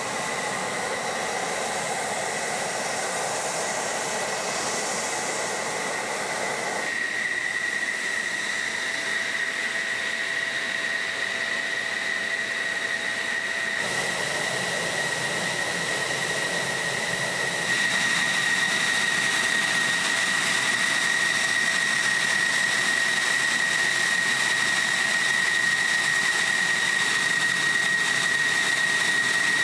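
F-16 fighter jet engine running steadily: a loud rushing hiss with a high, steady turbine whine, its tone and loudness shifting abruptly a few times, stepping up at about 18 seconds in.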